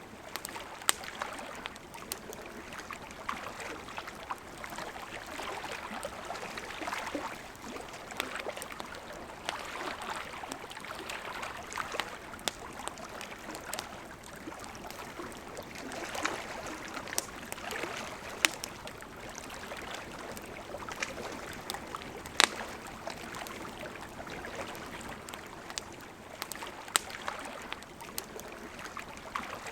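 A river flowing steadily with a campfire crackling over it: scattered sharp pops and snaps, the loudest about three quarters of the way through.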